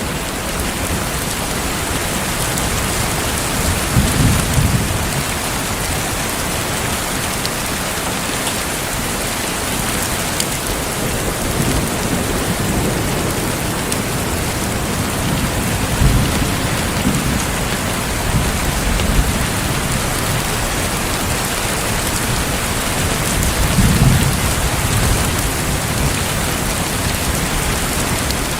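Heavy rain falling steadily, with low rolls of thunder rumbling up several times.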